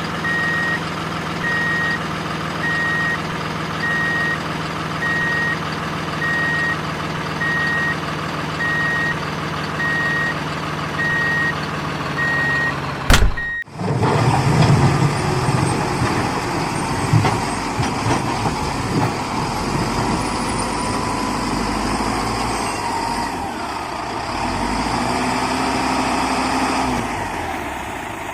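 Truck reversing alarm beeping at a steady pace, about once every second and a half, over a running engine. About halfway through it cuts off suddenly, and a truck engine runs on with uneven clattering.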